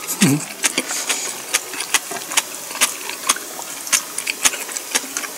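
Close-miked eating sounds: chewing with irregular sharp wet mouth clicks, a few a second, and a brief hummed "mm" just after the start.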